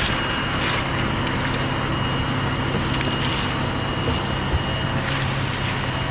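A motor running steadily with a low hum, with a few short sharp clicks or cracks over it.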